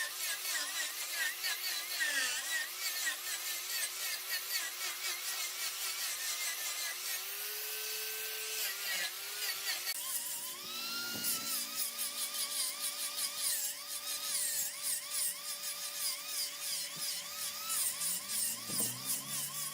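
A high power-tool whine whose pitch wobbles up and down several times a second, as from a cutting tool working a spinning wood-lathe workpiece. About halfway through, the sound shifts: a steady tone comes in and the pitch slides upward.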